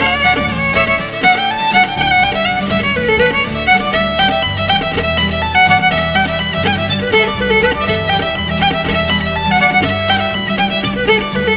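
Fiddle playing a fast Irish dance tune in quick running notes over a steady low accompaniment.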